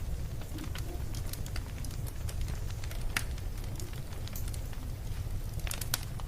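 Burning firewood crackling, with irregular sharp pops over a steady low rumble; the loudest pops come about three seconds in and again near the end.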